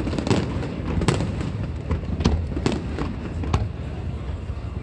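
Fireworks show: many aerial shells bursting in quick, irregular succession, with sharp cracks over a continuous low rumble of booms.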